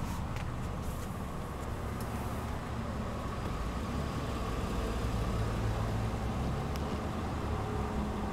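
Steady low rumble of a car engine idling, heard from inside the cabin, with a few faint clicks.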